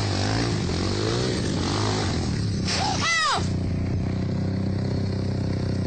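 A vehicle engine, most likely a motorcycle's, running steadily. About three seconds in comes a short, high cry that rises and falls.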